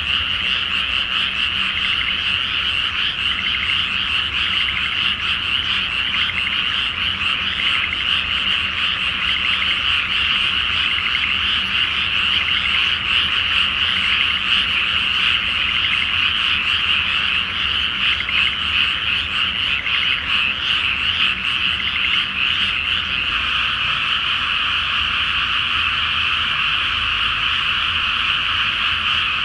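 A loud, dense chorus of many frogs croaking together in a flooded rice paddy: an unbroken din of overlapping calls.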